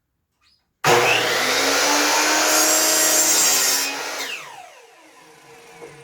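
Power miter saw starting up and cutting through a wooden board. About three seconds later it is released and the blade winds down with a falling whine.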